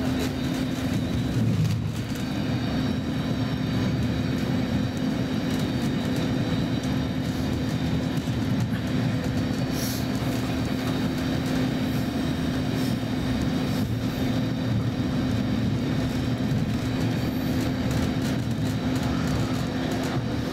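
Roslagsbanan X10p electric commuter train running at speed, heard from inside the passenger car: a steady rumble of wheels and running gear with a constant low hum.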